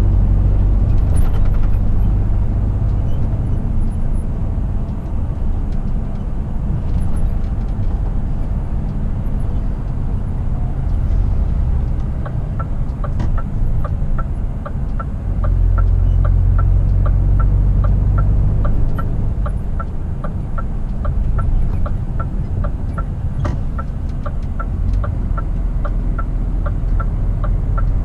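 A Scania R450 truck's diesel engine and road noise as heard from the driver's cab while driving on the highway, a steady low rumble. About twelve seconds in, a regular ticking of roughly three clicks a second begins and keeps going.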